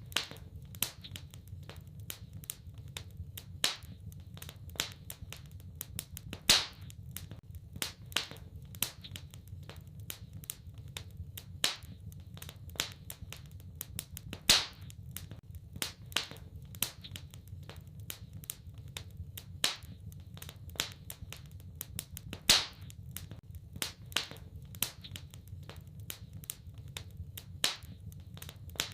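Wood fire in a fireplace crackling, with many small snaps and a louder pop every few seconds over a steady low rumble.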